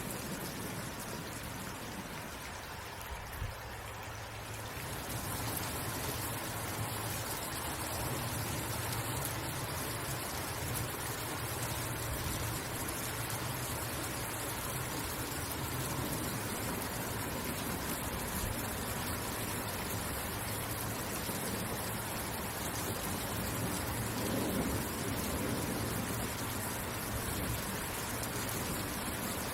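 Steady rain falling as an even hiss. A few seconds in, the upper part of the sound thins out, then fills back in at about five seconds and stays steady.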